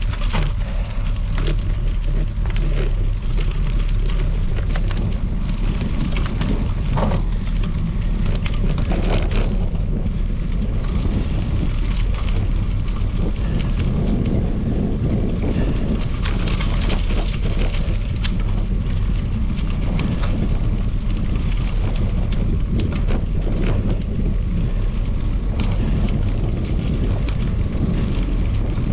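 Wind rushing over the microphone of a moving bicycle, with a steady crackle of tyres rolling on gravel.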